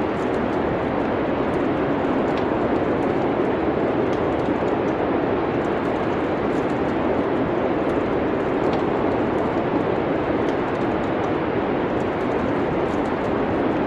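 Steady rushing wind of a snowstorm, with faint scattered crackles from a wood fire.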